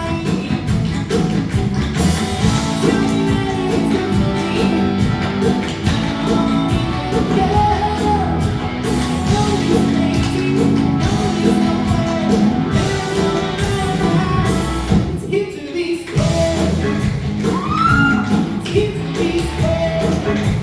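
Live band music with singing. The music drops out briefly about three-quarters of the way through, then carries on.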